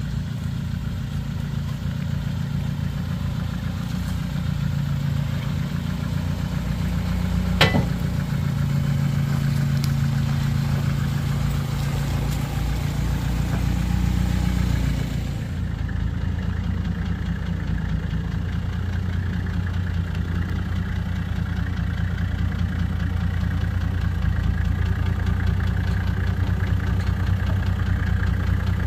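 Four-wheel-drive engine idling steadily, a low even hum. There is a single sharp click about eight seconds in, and the engine sound changes about halfway through.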